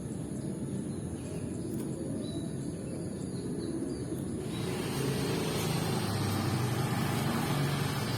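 Low rumble of a passing motor vehicle, growing louder about halfway through. A few faint bird chirps sound in the first half.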